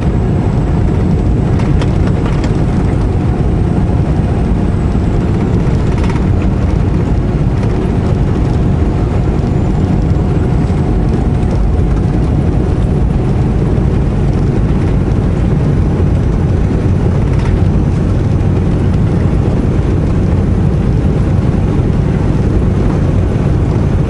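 Semi truck's diesel engine running steadily at cruise with road and tyre rumble, heard from inside the cab, with a faint steady whine through the first half.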